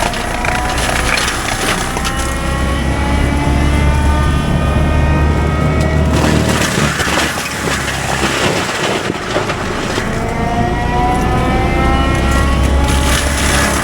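Fecon forestry mulcher at work: the heavy carrier engine drones under load and the mulcher's whine climbs in pitch twice as the drum speeds back up between bites.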